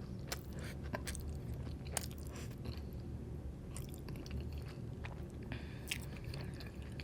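Close-up mouth sounds of a person chewing food, with scattered soft crunches and wet clicks.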